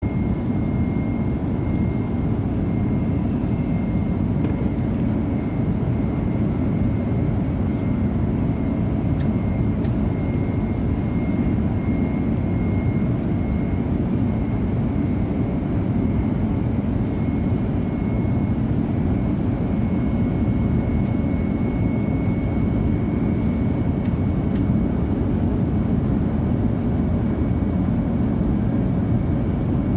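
Inside an ICE 3 high-speed electric multiple-unit train on the move, heard from the front passenger row behind the driver's cab: a steady deep rumble of running noise, with a faint steady high whine over it.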